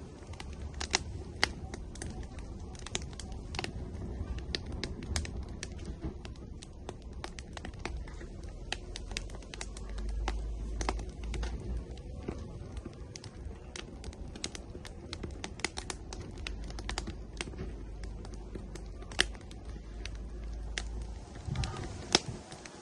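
Wood fire burning in an outdoor grill, crackling with irregular sharp pops, a few of them much louder, over a low rumble.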